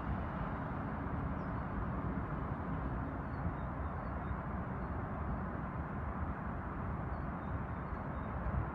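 Steady low rumble of a train still far off, approaching along the line, with a few faint high bird chirps.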